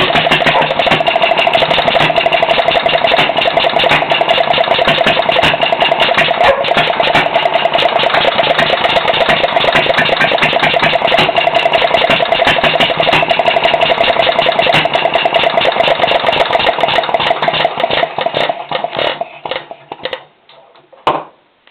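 Small Lauson LA single-cylinder engine running with rapid, even firing strokes. About 18 seconds in the strokes slow and thin out as it winds down. One last loud knock comes near the end.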